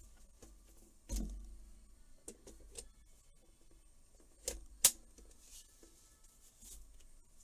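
Handling noises of small parts and tools on a workbench: a soft knock about a second in, a few light ticks, and one sharp click near the five-second mark.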